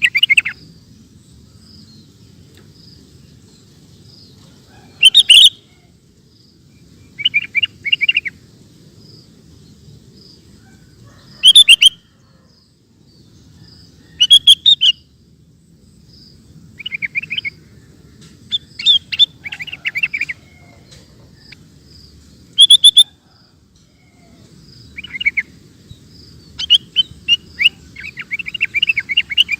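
Sooty-headed bulbul singing: short bursts of quick, bubbly chattering notes every two to three seconds, some of them very loud, with a longer run of notes near the end.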